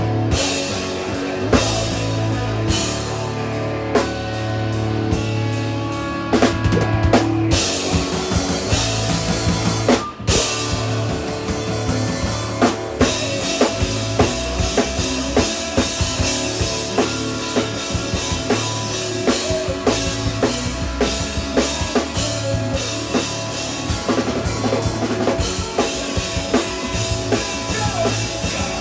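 Three-piece instrumental rock band playing live: guitar and bass notes ringing over a drum kit. About ten seconds in the sound breaks off for an instant, then the drums come in hard and steady under the guitar.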